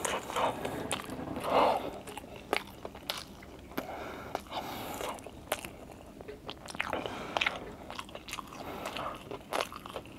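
A person chewing fried chicken close to the microphone: irregular small clicks and mouth noises of chewing and biting.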